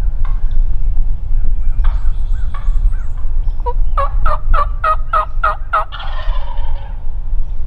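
A series of about eight turkey yelps, roughly four a second, then a wild turkey gobbling once for about a second. A steady low rumble runs underneath.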